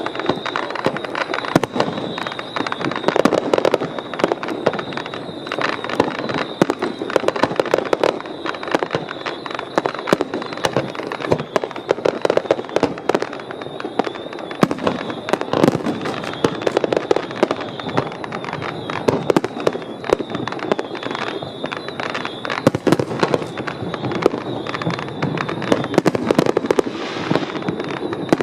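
Aerial fireworks display bursting in rapid, unbroken succession: dense bangs and crackles with heavier volleys every couple of seconds.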